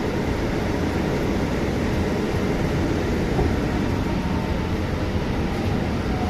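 Scania bus running along, heard from inside the passenger cabin: a steady mix of engine and road noise.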